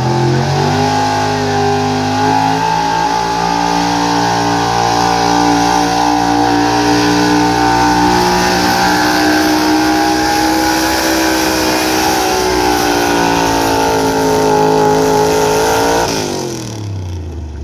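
Gasoline pickup truck engine at high revs pulling a sled: the pitch climbs over the first two seconds, holds high and nearly steady under load for a long stretch, then drops quickly near the end as the throttle comes off.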